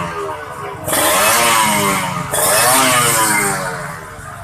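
Two-stroke Kawasaki Ninja motorcycle engine through an aftermarket KDX-style exhaust, throttle blipped twice about a second and a half apart, the revs dropping back after each blip. The exhaust has a crisp, ringing tone.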